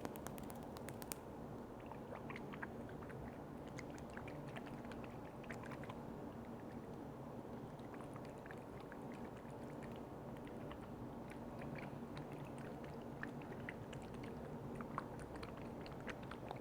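Close-miked ASMR handling of containers with liquid: soft wet, squishy sounds over a steady low hum, with many small scattered clicks and taps, several of them together near the start.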